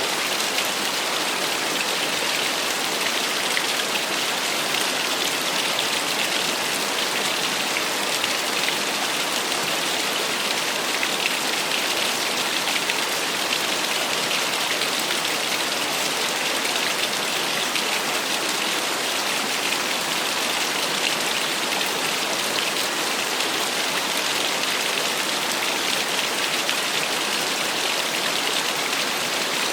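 Small waterfall splashing steadily, an even hissing rush of falling water.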